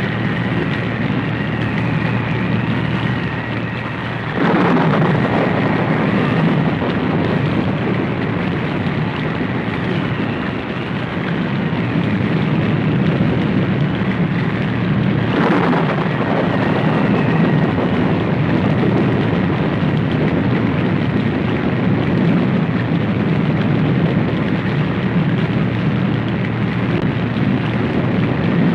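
Horror sound effect: a steady, dense rumbling roar like a storm, with two sudden crashes about four and fifteen seconds in, and a faint thin high tone in the first few seconds.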